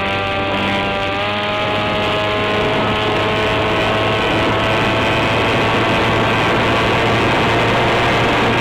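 Electric RC plane's brushless outrunner motor (NTM Prop Drive 28-26, 1200kv) spinning an 8x6 propeller at steady high throttle: a loud, steady whine whose pitch dips slightly about a second in and then sags slowly, over a rush of wind on the microphone.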